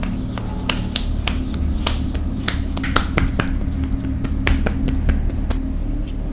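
Sharp, irregular slaps and snaps of hands during a percussive massage, roughly three a second, over a steady low hum.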